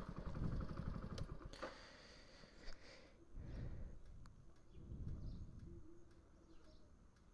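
Motorcycle engine idling with an even, rapid putter that fades out about a second and a half in, followed by a couple of soft low rumbles.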